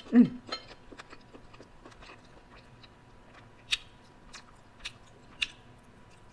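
A person chewing food with wet mouth clicks and smacks, with a few sharper crisp clicks past the middle. A short low hum that falls in pitch comes right at the start and is the loudest sound.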